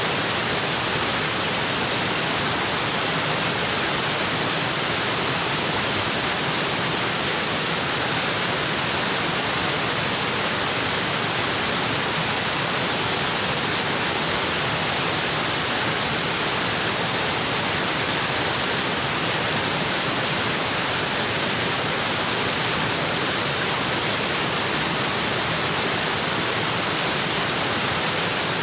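Waterfall: water pouring onto rocks in a steady, unbroken rush.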